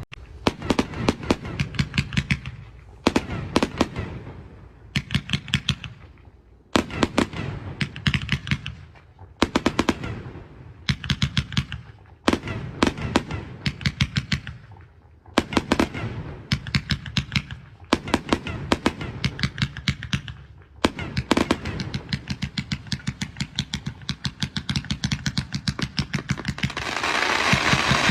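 Fireworks going off in repeated volleys of rapid sharp bangs, a quick string of reports every couple of seconds. Near the end they build into a dense, continuous crackle.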